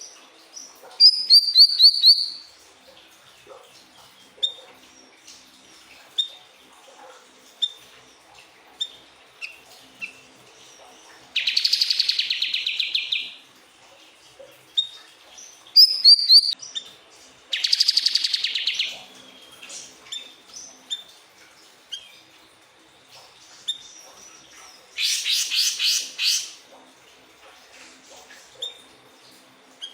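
Siri-siri bird song: short high chirps repeating about once a second, broken by loud, rapid pulsing trills of one to two seconds, five times.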